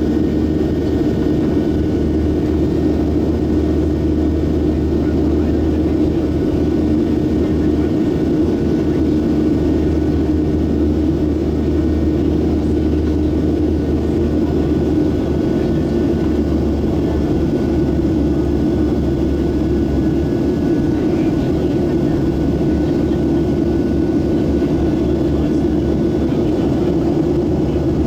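Boeing 737-700 jet engines (CFM56-7B turbofans) running as a steady, even drone with a low hum, unchanging throughout.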